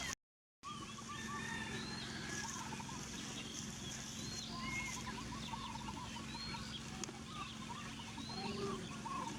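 Many short overlapping bird calls, chirps and clucking-like runs typical of domestic fowl and small birds, over a steady low hum. The sound drops out completely for about half a second just after the start.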